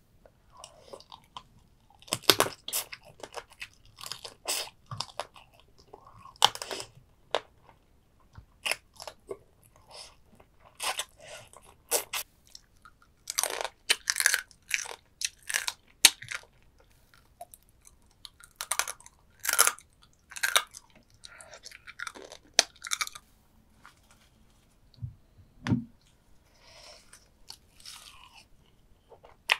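Close-miked eating of soy sauce marinated stone crab: irregular sharp crunching and chewing, in bursts with short pauses, thinning out in the last few seconds. One dull low thump comes near the end.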